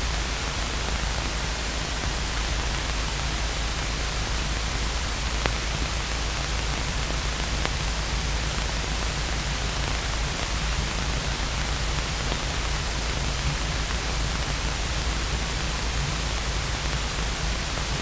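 Steady hiss of a light aircraft's cockpit heard through the headset/intercom audio feed, with a low engine drone beneath it as the Luscombe taxis.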